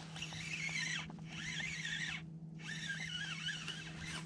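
A bird calling in repeated warbling phrases about a second long, each with short gaps between, over a steady low hum.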